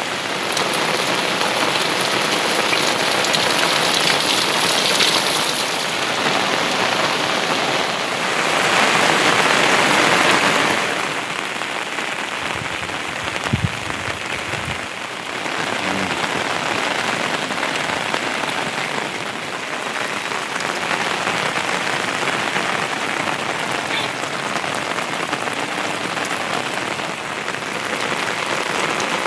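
Heavy monsoon rain falling steadily, a dense hiss that swells louder twice in the first half. A few brief low knocks sound near the middle.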